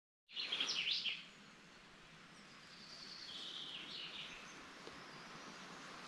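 Songbirds singing: a loud, rapid phrase of high chirps in the first second, then a fainter phrase around three to four seconds in, over a faint steady background hiss.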